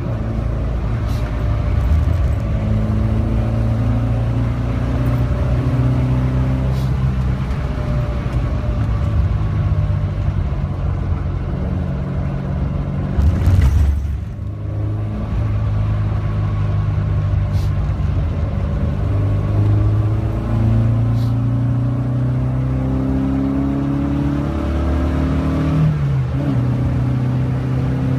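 Alfa Romeo Giulia's twin-cam four-cylinder engine at racing speed, heard from inside the cabin, its pitch climbing through the gears and dropping at each shift or lift. There is a short loud rush about halfway through, followed by a brief drop in level.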